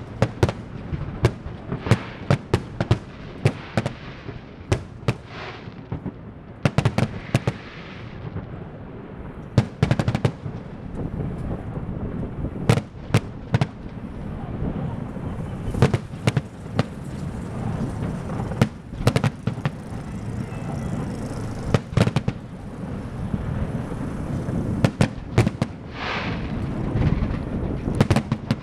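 Fireworks going off: many sharp bangs at irregular intervals over a steady low rumble, with bursts of dense crackling near the start and again near the end.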